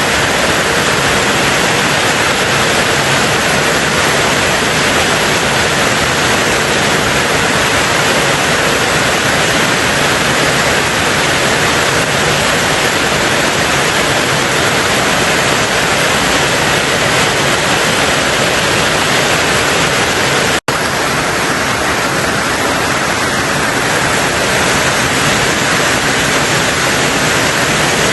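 Steady heavy rain on a tin roof, a dense even patter with no separate drops standing out. A split-second gap about two-thirds of the way through, after which the rain goes on slightly quieter.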